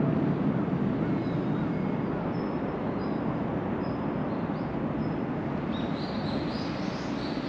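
A train running by with a steady low rumble, while small birds chirp and whistle over it, with a quick run of rising chirps near the end.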